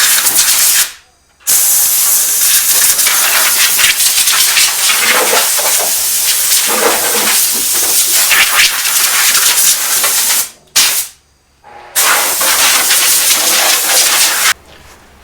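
Power grinder grinding rust off the Porsche 911's front-end sheet metal down to bare metal, a loud, steady hissing grind. It stops briefly about a second in, and again for about a second and a half around ten seconds in, apart from one short burst.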